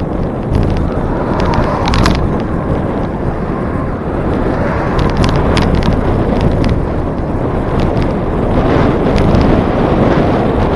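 Wind rushing over the microphone of a camera on a moving bicycle, a loud steady rumble, with scattered sharp clicks and rattles from the bike.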